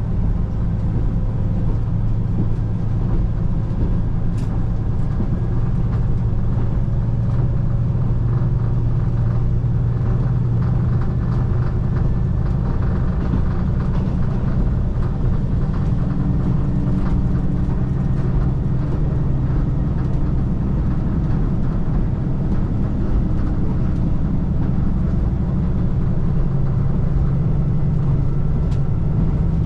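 Cabin sound of a KiHa 185 series diesel express railcar under way: the steady drone of its diesel engine and running gear. The engine note shifts in pitch a couple of times, around the middle and near the end.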